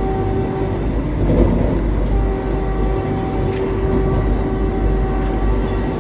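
Running noise of a Vande Bharat Express heard from inside its coach while a train on the next track runs close alongside. A low steady rumble carries a constant whine that drops out briefly about a second in, with a few faint clicks of wheels over rail joints.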